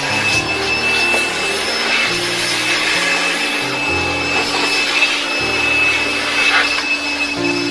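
Repeated rubbing and scraping while dust is cleaned off the back of a refrigerator, over background music with low sustained notes that change every second or so.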